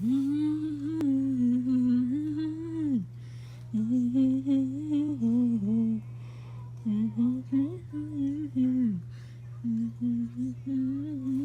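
A young person humming a tune, a single voice moving up and down in phrases of a few seconds, with short breaths between them.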